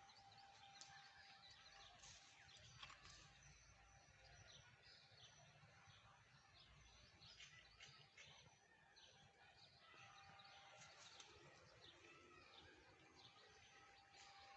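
Faint bird chirps: many short, scattered high calls over a quiet rural background.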